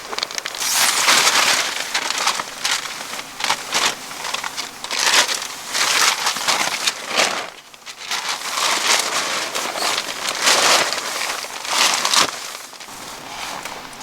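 Irregular bursts of crinkling, crunching rustles with short clicks between, dipping briefly about eight seconds in and again near the end.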